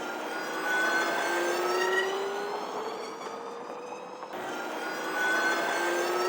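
Zero FX electric motorcycle accelerating: its motor whine rises steadily in pitch over a rushing noise. The run breaks off about four seconds in and starts again lower.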